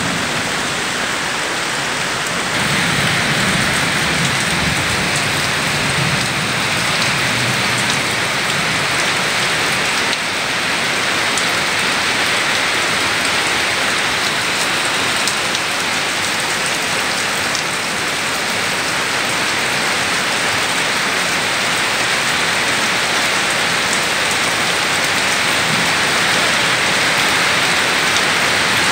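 Rain falling steadily on trees and leaves: a dense, even hiss.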